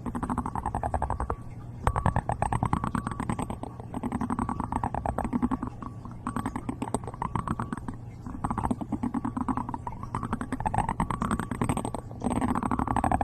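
Close-miked ASMR trigger sounds: a fast, continuous stream of crackling clicks that swells and fades every couple of seconds.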